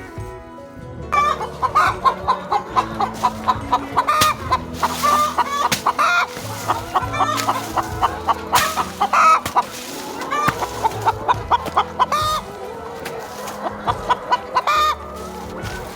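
A flock of chickens clucking, many short calls overlapping, starting about a second in.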